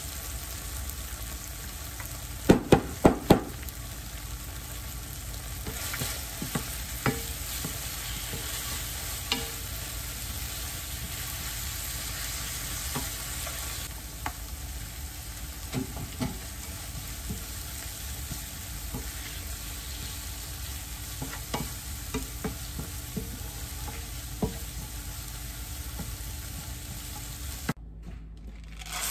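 Sliced onions in sauce sizzling in a nonstick frying pan with a steady hiss, a wooden spoon stirring and scraping them with scattered light clicks. Four quick, sharp knocks come about two and a half seconds in, and the sizzling stops abruptly near the end.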